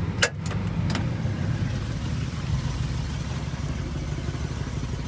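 Vehicle engine idling with a steady low hum, with a couple of sharp clicks in the first second.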